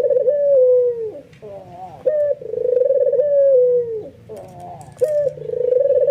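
White albino puter (domestic Barbary dove) giving its excited bowing coo: a low, rolling coo phrase about every three seconds, each ending in a falling note.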